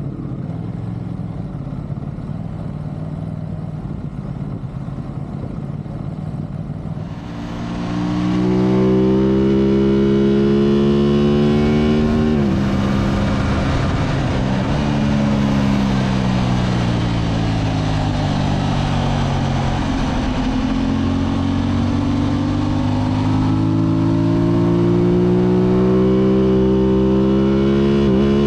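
Motorcycle engine heard from onboard on a racetrack lap: a steady lower note for about the first seven seconds, then revving up hard and loud, a sudden drop about twelve seconds in, falling pitch for several seconds, then slowly rising again toward the end.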